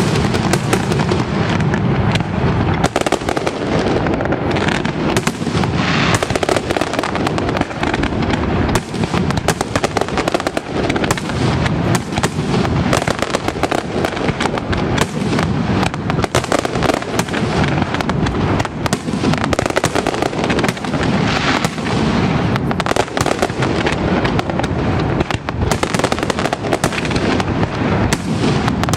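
Aerial fireworks display (castillo) by Pirotecnia Aitana: a dense, unbroken barrage of shell bursts, bangs and crackle, many reports overlapping each second.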